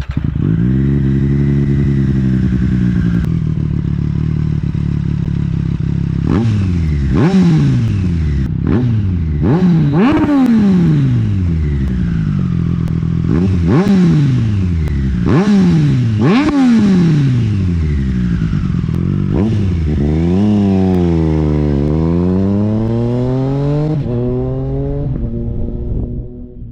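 A 2020 Triumph Street Triple RS's 765 cc inline three-cylinder engine, breathing through a LeoVince LV One EVO slip-on exhaust, starts up and idles. It is then revved in about six quick throttle blips, with the pitch jumping up and dropping back each time, followed by one slower rev down and back up.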